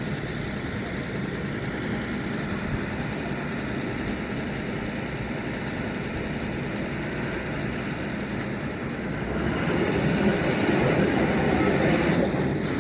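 Steady vehicle engine and road noise, growing louder about ten seconds in.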